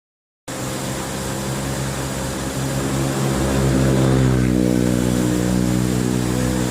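A motor engine running steadily, its pitch shifting slightly, growing a little louder about four seconds in.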